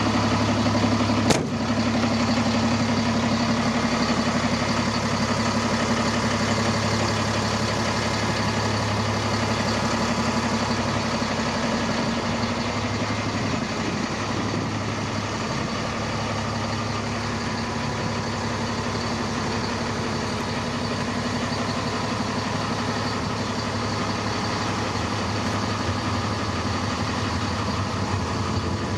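DAF CF65 truck's diesel engine idling steadily, with a single sharp click about a second in.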